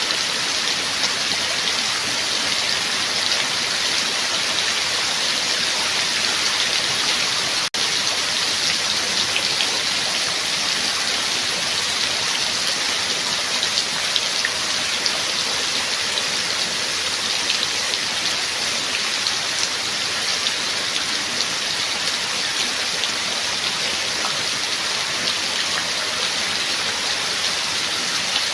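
Steady heavy rain: a dense, even hiss with many small drop ticks. It cuts out for an instant about a quarter of the way in.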